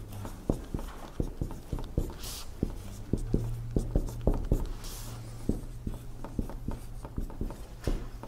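Dry-erase marker writing on a whiteboard: a quick run of short taps and strokes as letters and numbers are written, with a few longer streaking strokes.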